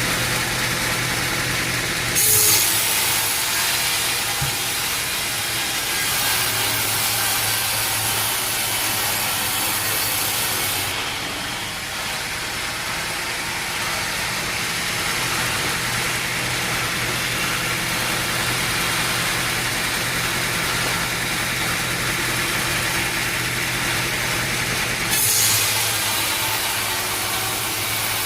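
Sawmill machinery running steadily: an engine's hum under a constant hiss of sawing. There are two short, louder surges of hiss, about two seconds in and again near the end.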